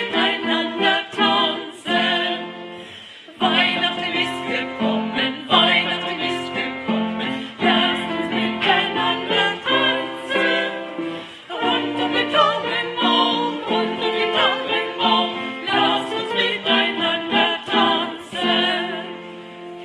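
A small group of singers singing a Swedish Christmas song in Swedish, in held phrases with short breaks about three and eleven seconds in.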